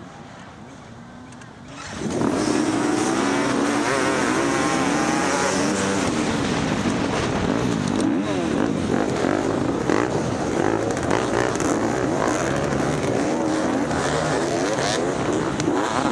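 Several dirt bike engines running, then about two seconds in they all open up at once and keep revving hard with wavering, overlapping pitches, as at the start of an off-road race.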